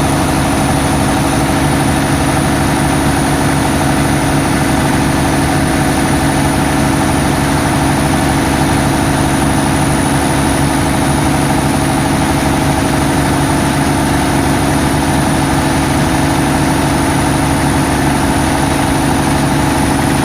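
Cummins gas generator engine running steadily at constant speed: a loud, even drone with a thin high whine above it.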